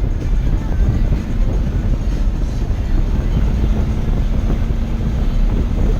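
Race car running at speed, heard from inside the car: a loud, steady low rumble of engine and road noise, with a faint steady hum joining about halfway through.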